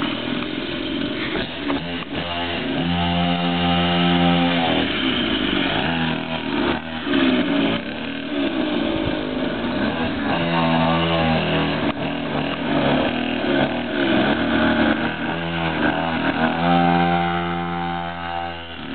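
Mini dirt bike engine being ridden, revving up and down over and over, with the revs held high and steady three times.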